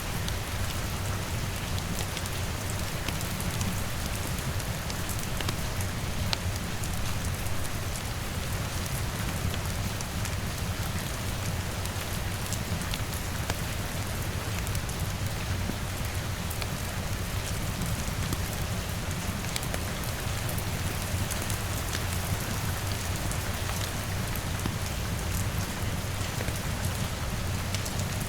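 Steady heavy rain with a deep low rumble, sprinkled all through with small sharp ticks and crackles from rain drops and a wood fire.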